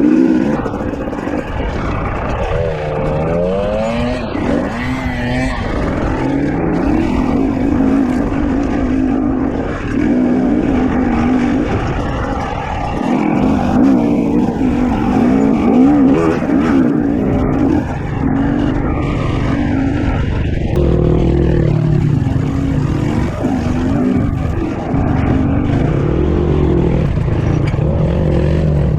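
KTM 250 XC-W two-stroke dirt bike engine working at low speed over rough ground, its pitch rising and falling with short blips of throttle. From about two-thirds of the way in, a lower, steadier engine note runs underneath.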